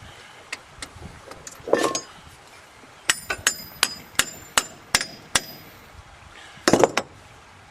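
A hammer striking metal: a quick run of about seven ringing blows, roughly three a second, in the middle, with a heavier, duller knock before them and another near the end.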